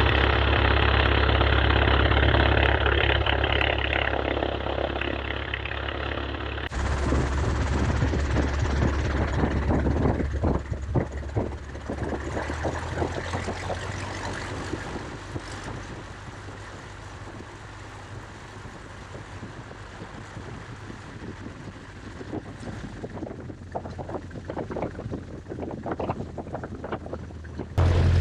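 Light aircraft in flight: a steady engine drone heard in the cabin, then after a cut about seven seconds in, gusty wind noise on the microphone with the engine fainter beneath.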